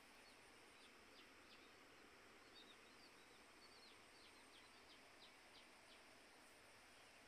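Many short, high bird chirps, a few each second, some dipping in pitch, over a faint steady hiss of quiet open-air ambience.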